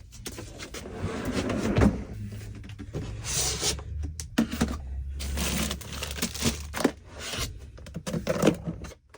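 Plastic food containers being loaded into an ICECO portable fridge-freezer: a run of knocks, clicks and scrapes as the containers are handled and set inside.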